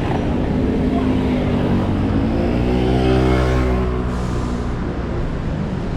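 A motor vehicle passes close by, its engine note swelling to its loudest about halfway through and then fading, over general street traffic.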